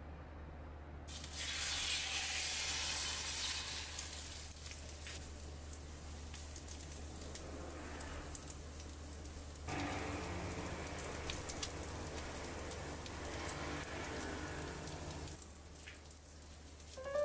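Batter-coated chicken cutlets sizzling as they are laid into a hot stainless steel frying pan. The sizzle starts suddenly about a second in, is loudest just after, and picks up again around ten seconds in.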